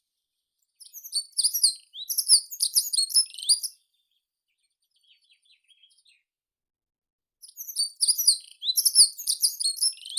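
Meadow songbird singing: two bursts of rapid, high-pitched chirping notes, the second near the end, with a few faint, lower calls in the pause between them.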